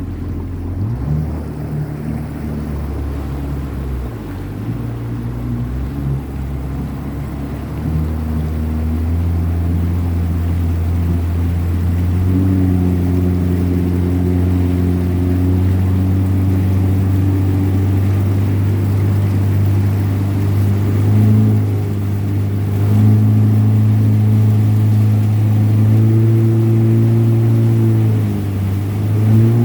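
Jet ski engine running on the water. It picks up speed about eight seconds in and climbs again a few times after that.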